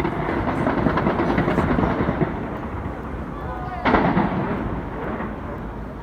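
Fireworks exploding: a loud boom with dense crackling for about two seconds, then a second sharp boom about four seconds in that dies away.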